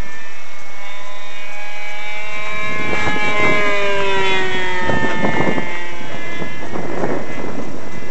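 Electric RC model plane's brushless motor (Emax GT2820) and APC 8x8 propeller whining in flight, loudest about three to four seconds in, its pitch sliding slowly down.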